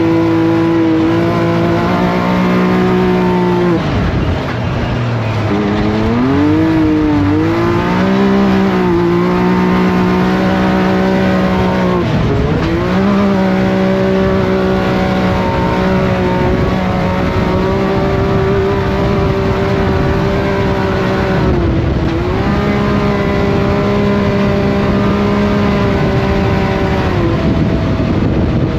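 Off-road buggy engine running hard at high revs. The pitch drops away and climbs back up several times, as on lifting off and accelerating again through corners.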